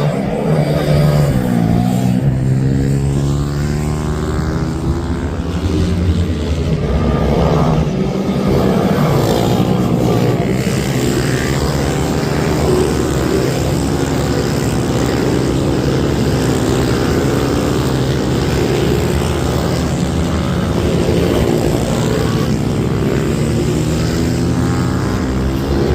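Several minibike engines racing together at high revs, their pitches overlapping and rising and falling as the bikes accelerate, brake and pass by.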